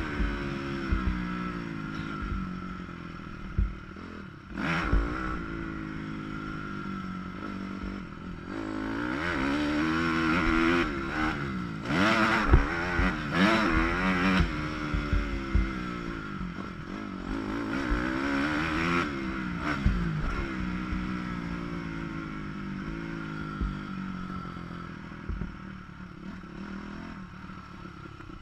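Dirt bike engine being ridden hard on a motocross track, revving up and rolling off again and again through the gears, with knocks and clatter from the bike over rough ground. It is muffled by the camera's waterproof housing, and the revving eases off and gets quieter near the end.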